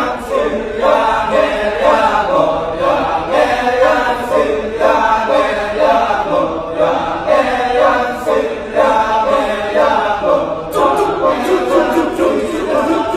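Balinese kecak chant: a chorus of voices singing and chanting without instruments in a steady, pulsing rhythm.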